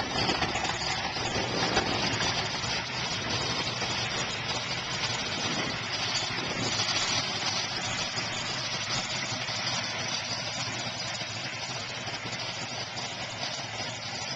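1970 Dodge Challenger R/T's 440 big-block V8 running, heard through its exhaust under a steady rushing noise, slowly getting quieter.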